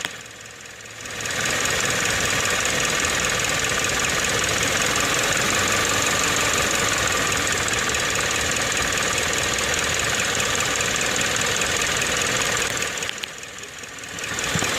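Car engine idling, heard up close in the engine bay with its belt-driven AC compressor: a steady running noise that drops away for about a second at the start and again shortly before the end.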